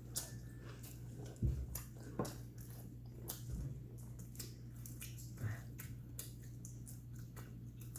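Close-up eating sounds: chewing and wet mouth smacks and clicks at irregular moments, over a steady low hum.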